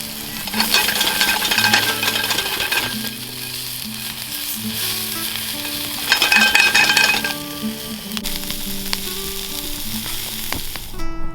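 Food frying in a hot pan, a steady sizzle that swells louder twice, about half a second in and again about six seconds in, then cuts off near the end.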